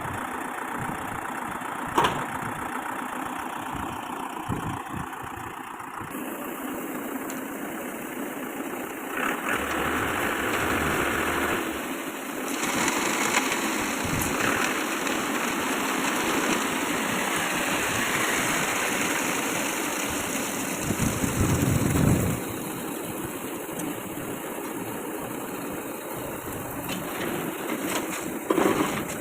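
Engine of a concrete mixer machine running steadily on a building site, growing louder through the middle stretch, with a sharp knock about two seconds in and a short loud burst near the end.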